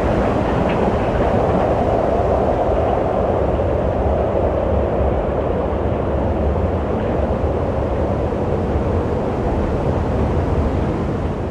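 Wind blowing steadily, a dense low rushing with no gusts standing out.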